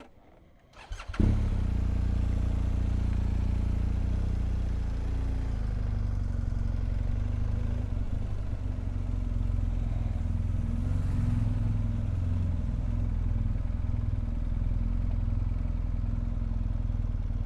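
BMW R1250 GS Adventure's boxer-twin engine running steadily at low revs. It comes in sharply about a second in, after a few faint clicks.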